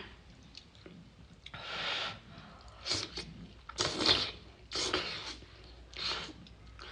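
A person slurping fire noodles in about five hissing sucks of air, a second or so apart.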